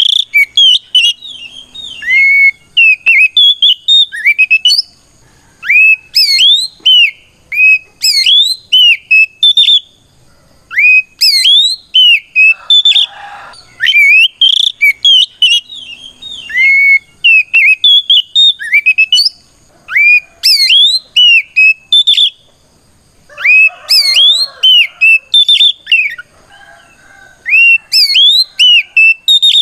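Oriental magpie-robin (kacer) singing its loud challenge song, the fighting song that calls out a rival. It sings rapid runs of sharp, upslurred whistled notes in bursts of a second or two with short pauses between, and a few rougher, lower notes mixed in.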